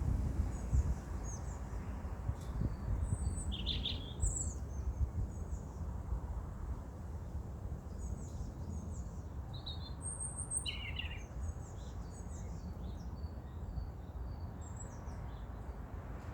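Garden birds singing and calling: scattered short high chirps throughout, with a couple of louder calls about four seconds in and again around ten to eleven seconds. A steady low outdoor rumble lies underneath.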